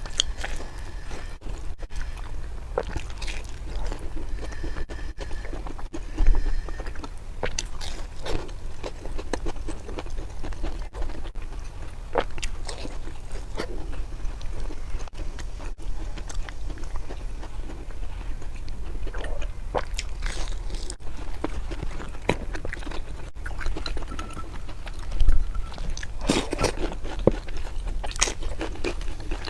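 Close-miked chewing and biting of food with irregular crunchy, wet mouth clicks, as in an ASMR eating video. Two louder low thumps come about 6 seconds in and again near the end.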